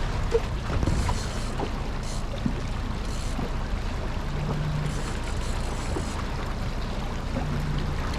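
Steady low rumble and water noise of a small boat under way, with scattered light knocks and two brief low hums, about four and seven and a half seconds in.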